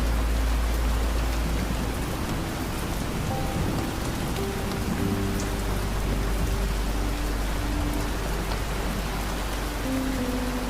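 Steady rain falling, with soft held music notes drifting over it and a deep low rumble underneath.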